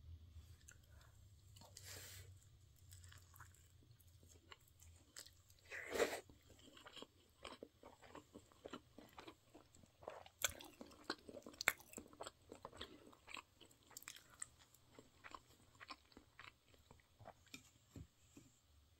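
Close-up chewing of a mouthful of fried tofu-pouch rice ball (yubu-chobab), with a louder bite about six seconds in and then many small crunchy clicks.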